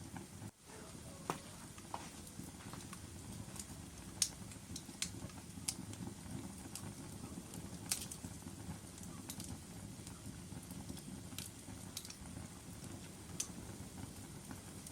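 Wood fire in a fireplace crackling: a steady low rush of burning logs with irregular sharp pops and snaps, the loudest about four and eight seconds in.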